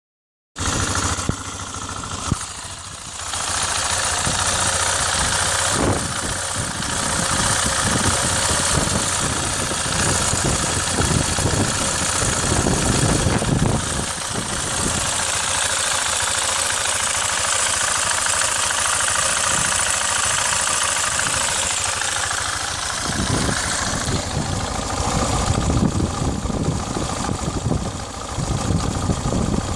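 KTM 690 SM motorcycle's single-cylinder four-stroke engine running, mostly at idle, with the sound swelling in a few louder stretches.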